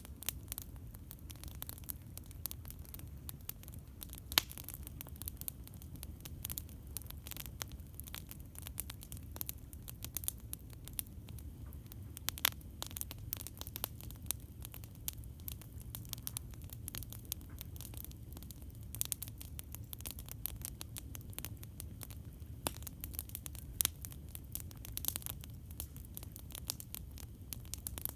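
Campfire crackling: a steady stream of irregular small snaps and pops, a few of them sharply louder, over a low steady rumble.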